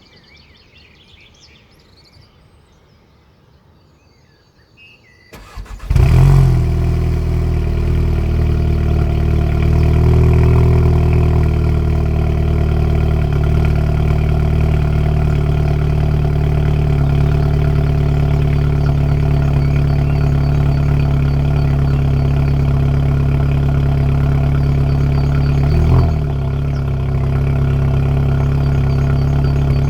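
Skoda Octavia RS 230's turbocharged 2.0-litre four-cylinder cold-started through a Remus cat-back valve exhaust: after about five seconds of quiet the starter cranks briefly, the engine catches with a flare of revs and settles into a loud, steady fast idle. The idle dips briefly once near the end.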